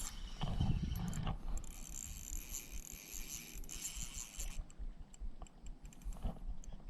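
Tokushima DG fishing reel working against a hooked Asian sea bass that is still fighting: a fast, fine ticking rattle from the reel's mechanism, strongest in the middle.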